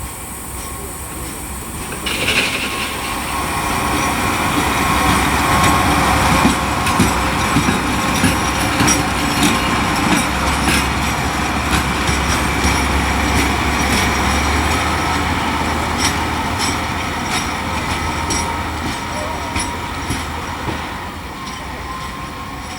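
A train rolling past, its wheels clicking over rail joints and points, over a low running hum. It builds up about two seconds in, is loudest in the middle and fades toward the end.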